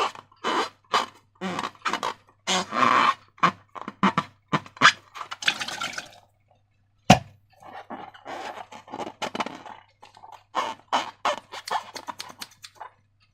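Slime being squished and worked by hand: irregular wet squelches and sticky clicks in quick bursts, with one sharp snap about seven seconds in.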